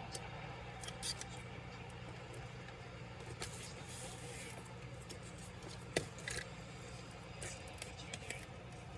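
Small scattered clicks and short scrapes of laptop parts and tools being handled during disassembly, with the sharpest click about six seconds in, over a steady low hum.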